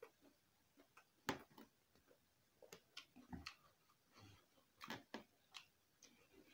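Mouth sounds of someone eating rice and meat by hand: irregular soft smacks and clicks of chewing and lips, the sharpest about a second in.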